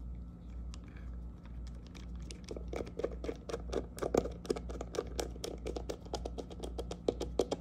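A screwdriver with a Torx bit is turned by hand, driving a grip screw home into a pistol's grip panel. It gives a run of small, sharp clicks that start sparse and become quicker and louder from about two seconds in, several a second.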